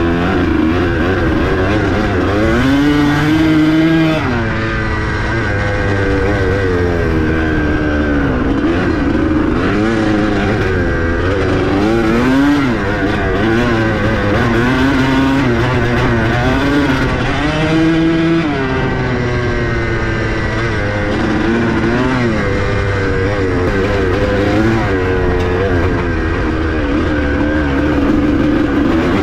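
250cc dirt bike engine running under load as it is ridden, its pitch rising and falling over and over with the throttle.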